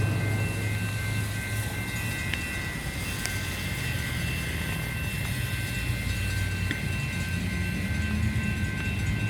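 Diesel locomotive of a freight train passing, its engine giving a steady low rumble with thin steady high tones above it.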